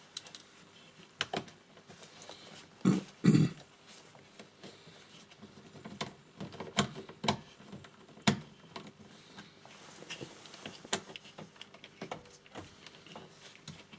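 Scattered clicks and light knocks of hands and a tool working blind behind a car's plastic dashboard trim, feeling for a hidden bolt behind the instrument cluster. Two louder thumps come about three seconds in.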